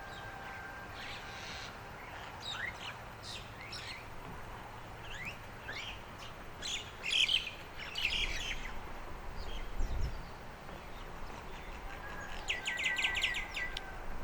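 Several small songbirds singing and chirping, with quick high calls scattered through and a rapid run of about ten notes near the end.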